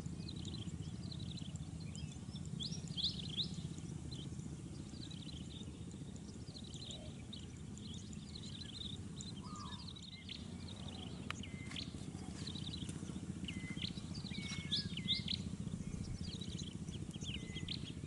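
Several small birds chirping and calling, many short high chirps and trills throughout, over a steady low rumble.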